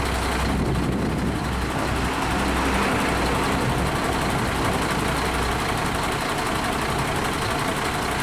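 Large truck engines idling in stopped traffic: a steady low rumble under a wash of traffic noise.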